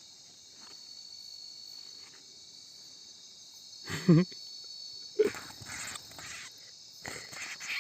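Night chorus of crickets: a steady high-pitched trill, with a short voice-like call about four seconds in and a few brief rustles after it.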